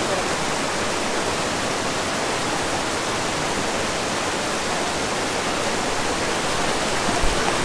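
Waterfall rushing steadily, a loud even hiss of falling water, with a brief low thump near the end.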